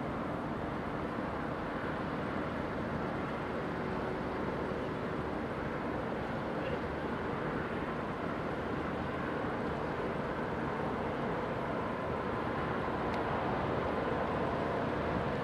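Electric locomotive hauling a container freight train on an electrified line, approaching as a steady rumble and hum that grows a little louder toward the end.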